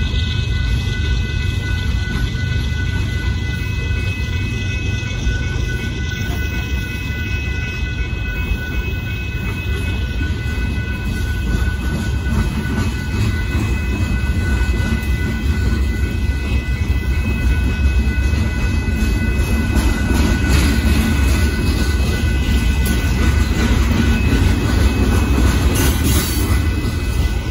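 Union Pacific boxcar freight train rolling steadily through a grade crossing, its wheels rumbling on the rails, while the crossing bell keeps ringing.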